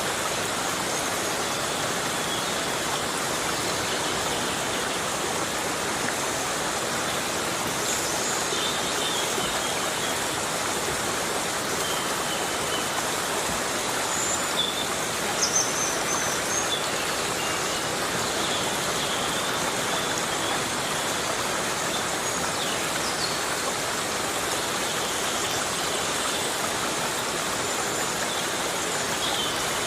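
Heavy rain falling steadily on forest foliage, a dense, even hiss with no let-up. A few faint, short high chirps sound through it now and then.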